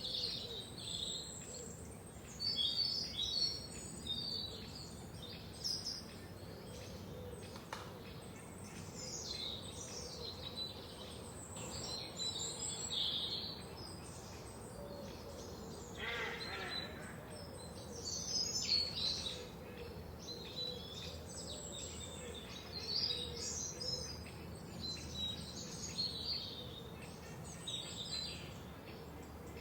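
Forest birds singing: several birds chirping and trilling in short, high, overlapping phrases, over a steady low background noise.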